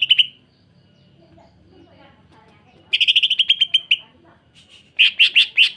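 Cucak ijo (green leafbird) singing in short bursts of fast, harsh, closely packed repeated notes, the rapid 'sewing machine' chatter prized in songbird training: a burst ending just after the start, a second about 3 s in lasting about a second, and a few louder notes about 5 s in.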